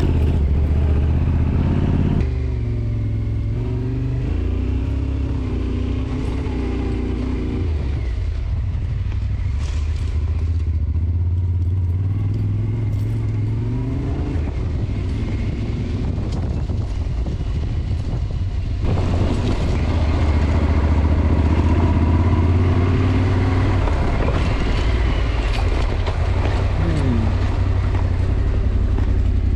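Yamaha Ténéré 700's parallel-twin engine running as the motorcycle is ridden, its engine speed stepping up and down several times, with abrupt changes about two seconds in and again around nineteen seconds.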